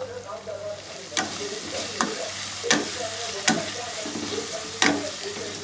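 Onion and spice masala frying in oil in a black kadai, sizzling, while a wooden spatula stirs it. The spatula scrapes and knocks against the pan about five times. The sizzle grows about a second in, as the stirring begins.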